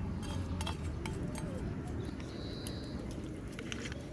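A few light clinks of tableware and utensils over a steady low rumble, with birds calling in the background, including a short high note about halfway through.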